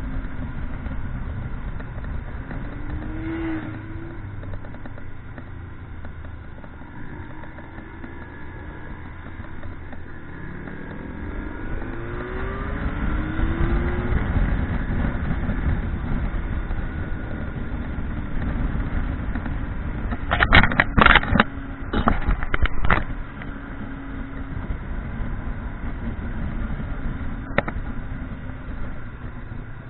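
Motorcycle engine running under way, its pitch climbing several times as it accelerates, over a low rumble of wind and road. A quick cluster of sharp knocks comes about two-thirds of the way through and is the loudest thing heard.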